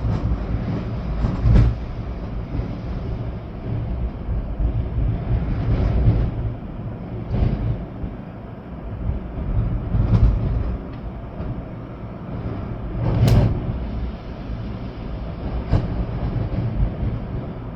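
Storm wind gusting through trees with rain falling, the gusts buffeting the microphone with a deep rumble. Several gusts swell and fade, the strongest late on.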